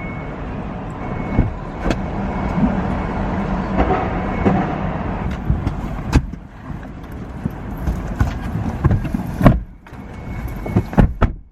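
Steady car noise, the engine and road heard from inside a vehicle, with several sharp clicks and knocks.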